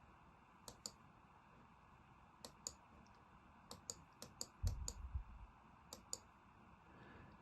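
Computer mouse clicking: six quick pairs of sharp clicks, with a dull low thump about two-thirds of the way through.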